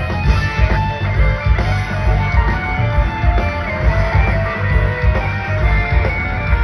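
Live rock band playing an instrumental jam: electric guitar lead lines over bass and a steady drum beat.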